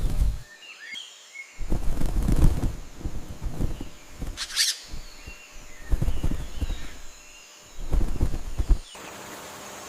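Forest ambience: a few short bird chirps, with several low rustling bursts and one brief sharp hiss about halfway through.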